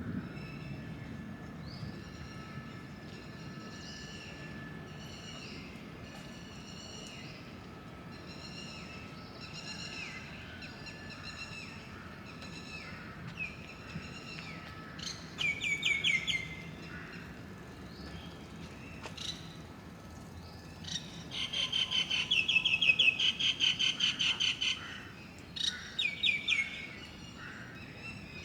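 Birds calling: a string of repeated curving whistled notes, then loud rapid chattering runs about halfway through and again for several seconds near the end, over a faint steady low hum.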